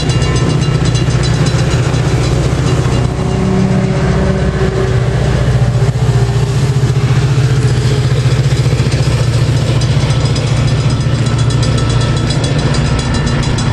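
A vehicle engine running steadily, a loud low hum with no clear rise or fall.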